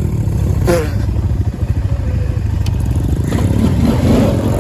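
Dirt bike engine running loudly and unevenly, its pitch starting to climb near the end as the throttle is opened.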